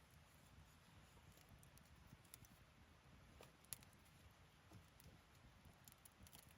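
Faint crackling of a wood campfire: scattered small pops and clicks, the sharpest about three and a half seconds in.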